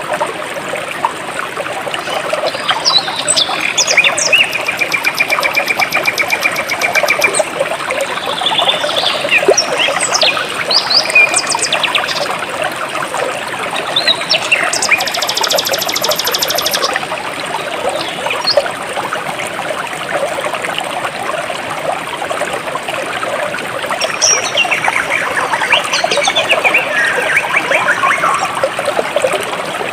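Jungle stream flowing and trickling steadily, with birds chirping and calling over it, busiest in the first few seconds after the start and again near the end. A fast, buzzing trill sounds twice, the second time higher.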